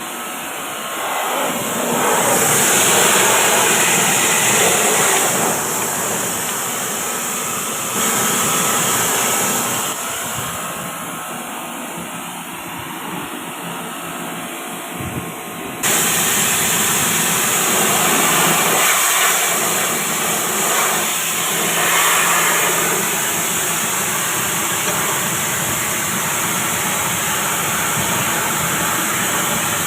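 Steady hissing water spray from a pressure-washer jet, with the machine's motor running underneath. The level jumps abruptly about 8 and 16 seconds in.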